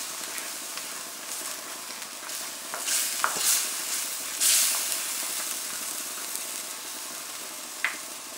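Chicken pieces in tomato sauce sizzling in a wok as a spatula stirs them, with a few louder scrapes against the pan midway and a sharp tap near the end.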